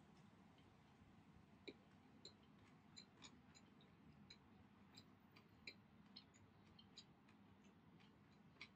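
Near silence with faint, irregular small clicks of someone chewing food, a couple every second.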